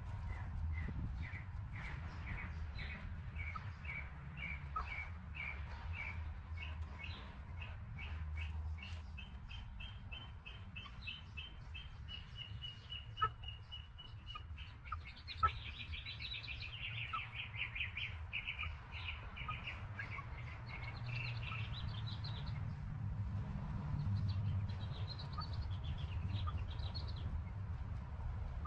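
Small birds chirping: a long, even series of short high chirps that speeds up and climbs in pitch into a trill, followed by another rapid run of chirps. Two sharp clicks sound midway, over a steady low rumble.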